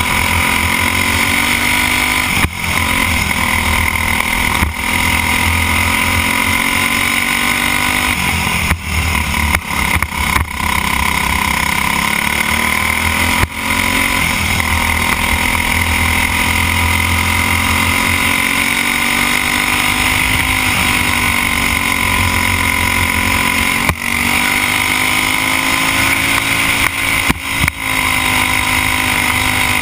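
Racing kart's Briggs & Stratton Animal single-cylinder four-stroke engine running hard at race pace. Its pitch climbs along the straights and drops briefly each time the throttle is lifted, several times.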